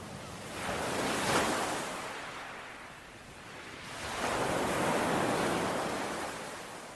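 Ocean surf washing onto a shore in two swells: one wave surges and peaks about a second and a half in, then fades, and a second, broader wave rises about four seconds in and slowly ebbs away.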